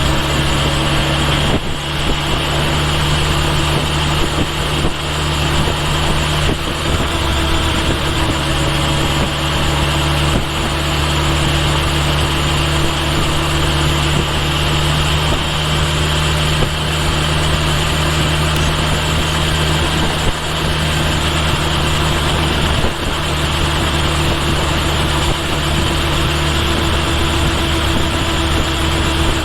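Kawasaki Ninja H2 SX supercharged 998 cc inline-four engine running at a steady pitch, heard close from a microphone at the rear of the motorcycle.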